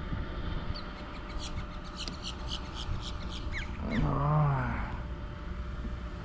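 A bird calling: a run of quick, high, short chirps, then a louder, wavering call about four seconds in, over a steady low background hiss.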